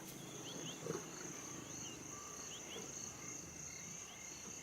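Insects, crickets or similar, keeping up a steady high-pitched drone, with short rising chirps scattered through it.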